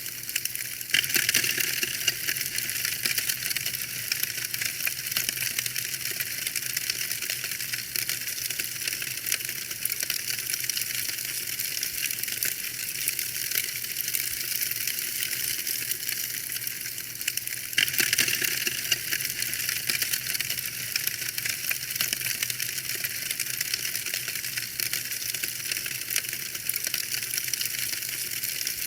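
Fire in a fireplace crackling steadily, a dense run of small pops and snaps, with louder bursts of crackling about a second in and again about eighteen seconds in.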